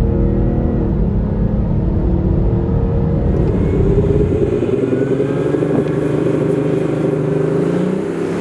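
Audi S5 Sportback TDI's 3.0 V6 turbo-diesel engine running under load. Its note changes a little over three seconds in, taking on more hiss and losing some of its low rumble.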